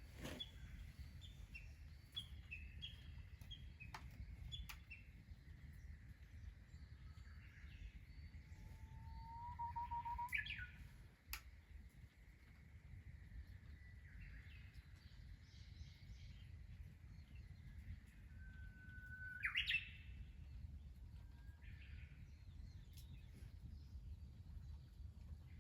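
Wild birds calling, faintly: short chirps in the first few seconds, then two longer songs about ten and twenty seconds in, each a held whistle ending in a quick rising flourish, over a steady low rumble.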